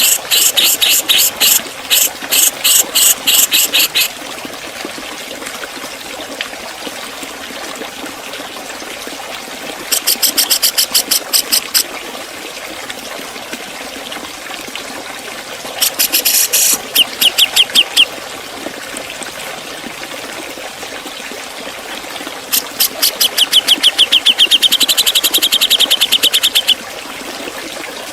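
Cucak jenggot (brown-cheeked bulbul) singing in four bouts of rapid, sharp, evenly repeated high notes, the sharp 'ngepik' and 'beset' style. The longest bout comes near the end. A steady hiss runs underneath.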